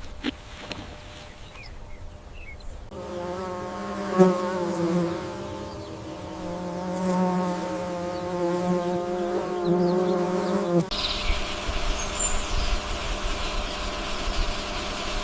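A flying insect buzzing steadily with a low hum for several seconds, then cutting off abruptly into a hissy outdoor ambience with a short high chirp.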